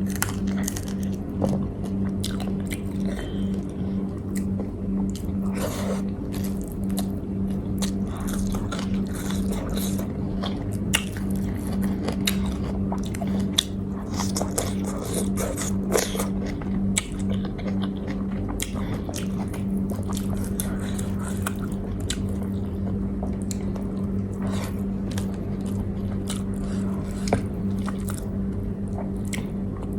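A person eating: chewing and biting food, with many small clicks and crunches. A steady low hum runs underneath.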